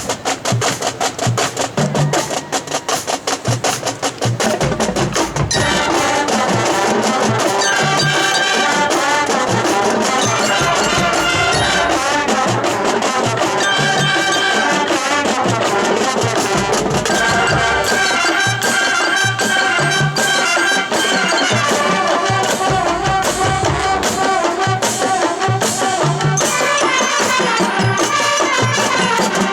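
High school marching band playing: percussion alone with steady drum strokes for about the first five seconds, then the brass and woodwinds come in and play with the drums to the end.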